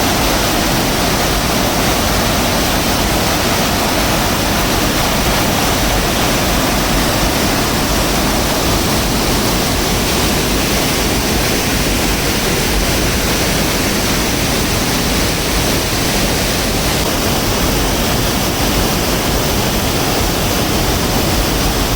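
Loud, steady rush of floodwater pouring down a swollen hill stream and waterfall.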